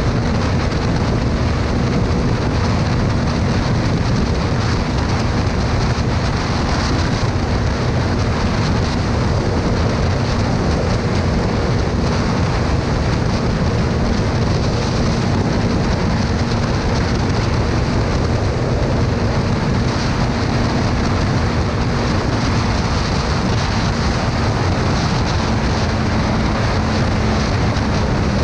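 Motorcycle engine running steadily at cruising speed, its drone buried under heavy wind rush on the microphone.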